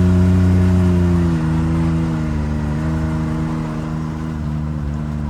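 Engine of the vehicle being ridden in, running under way with a steady note. The note drops to a lower, steady pitch about a second and a half in.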